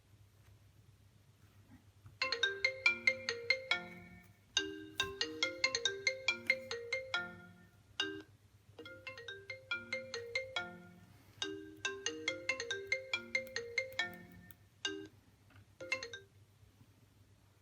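iPhone 7 Plus loudspeaker playing a ringtone: a tune of quick, bright notes in repeated phrases, starting about two seconds in and stopping shortly before the end, over a faint low hum.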